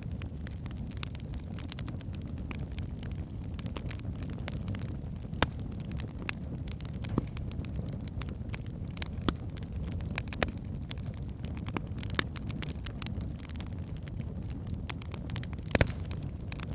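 Wood logs burning in a fireplace: a steady low rumble of flames with irregular sharp crackles and pops, a few of them louder, the loudest near the end.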